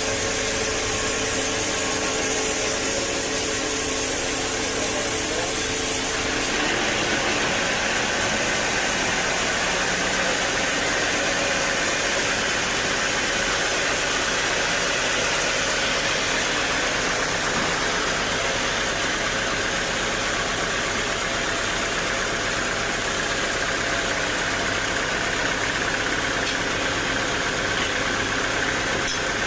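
Sawmill machinery running steadily, with a dense mechanical noise that changes character abruptly about six seconds in.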